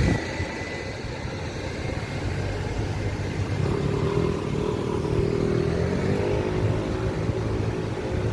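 A motor vehicle's engine running nearby, over a low traffic rumble. An engine hum comes in a few seconds in and rises a little in pitch around six seconds in.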